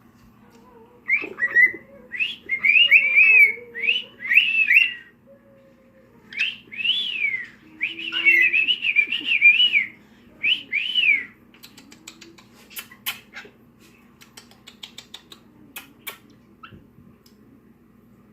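A male cockatiel whistling and chirping in quick rising-and-falling phrases for about ten seconds, singing to his own reflection. After that the song stops and there is a run of light, sharp clicks.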